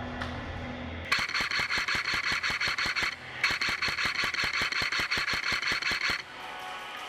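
Customised KWA Commando airsoft electric gun firing two full-auto bursts, one about two seconds long and a second about three seconds long, each a fast, even rattle of shots over a steady whine.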